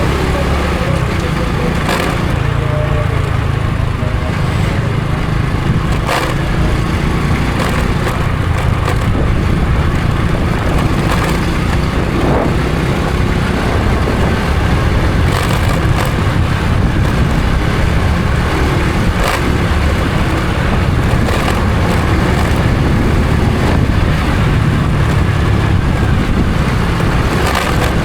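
Honda Supra X 125 FI motorcycle's single-cylinder four-stroke engine running steadily while riding, under a heavy low rumble, with a few faint clicks.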